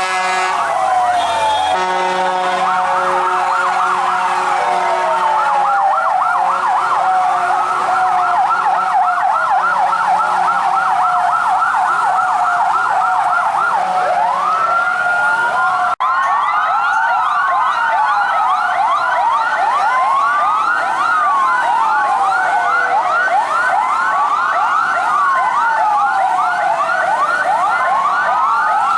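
Several fire truck sirens sounding at once, their rising and falling wails overlapping continuously.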